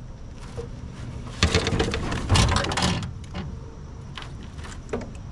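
Knocks and clatter of handling in a small fishing boat, densest between about one and a half and three seconds in, with a few separate clicks near the end.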